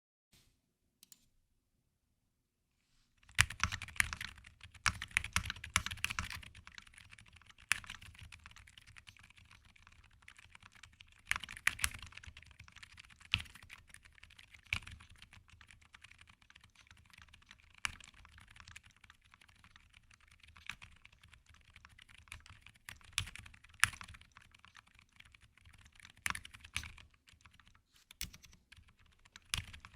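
Typing on a Jris65 65% custom mechanical keyboard with Wuque silent switches, an aluminium plate, GMK keycaps and M One v2 stabilizers. The keystrokes are soft and muted, in quick irregular runs with a few louder strokes among them. The typing starts about three seconds in, after a near-silent moment.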